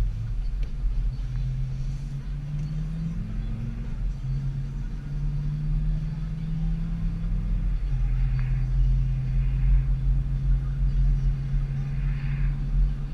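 Vehicle engine and road rumble heard from inside the cabin while driving. The engine note climbs as it accelerates and falls back twice, then holds steady from about eight seconds in.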